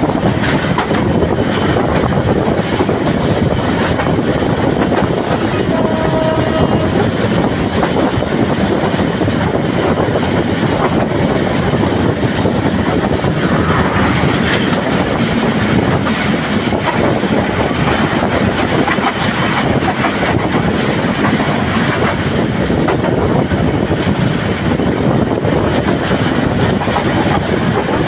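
Passenger train running at speed, its wheels clattering over the rail joints in a loud, steady rumble. A brief pitched tone sounds about six seconds in.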